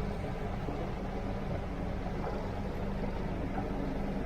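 Fishing boat's engine running steadily: a low, even drone with a constant hum.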